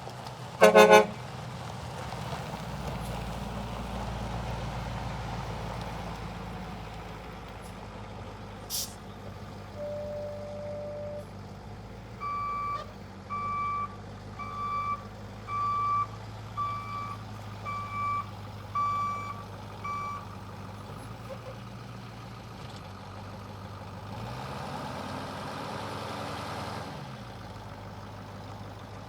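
Caterpillar 3208 V8 diesel engine of a motorhome idling steadily, with one short loud horn blast just after the start. About halfway through a backup alarm beeps about nine times, roughly once a second, and near the end the engine is briefly revved and falls back to idle.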